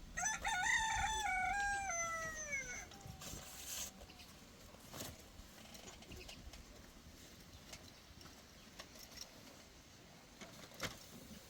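A rooster crowing once: a single call of about two and a half seconds that falls in pitch at the end. A couple of faint knocks follow.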